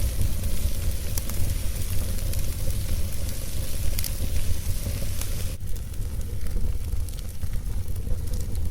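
Wood fire burning, crackling with scattered sharp pops over a steady low rumble. The hiss of the flames thins out suddenly a little past halfway.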